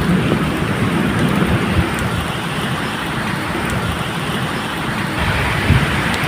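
Steady medium rain falling, with the low rumble of distant thunder, strongest near the start and again near the end.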